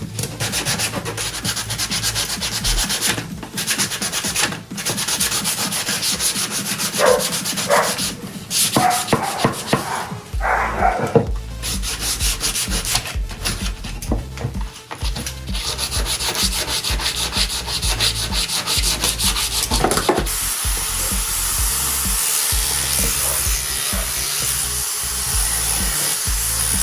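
Wood being sanded, abrasive rubbing steadily on a wooden chair part. A few brief knocks come around a third of the way in, and the sound turns smoother and steadier about twenty seconds in.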